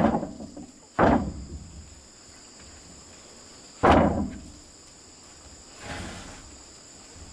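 Heavy thuds of wood being struck: one about a second in, another near the middle and a softer one later. A steady high chirring of insects runs underneath.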